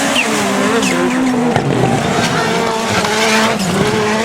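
Turbocharged rallycross Supercars racing, their engines revving up and down through gear changes.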